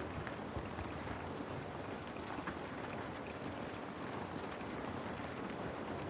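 Steady rain ambience: an even hiss of rainfall with scattered faint drop ticks.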